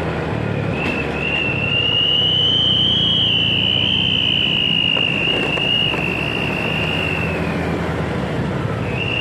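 Motorcycle ride: steady engine and road noise, with a loud high whine that holds and wavers slightly from about a second in, fades out near the end, and starts again at the very end.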